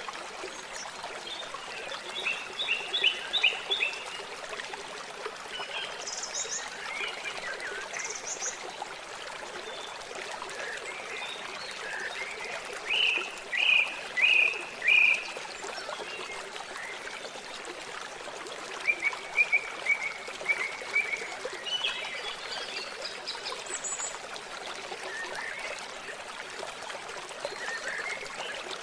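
Water running and trickling steadily, with birds singing over it in several phrases of quick chirps, the loudest near the middle.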